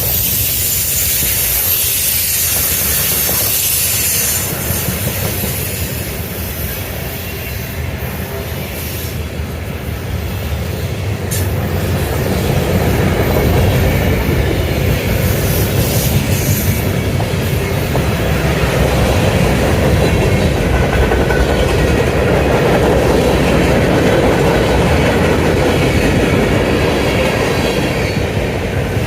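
Freight train cars rolling past on the rails, a steady loud rumble and clatter that eases a little and then grows again from about twelve seconds in.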